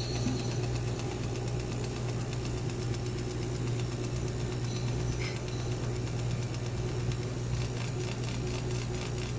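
CNC router running with a steady low hum and a fainter steady tone above it.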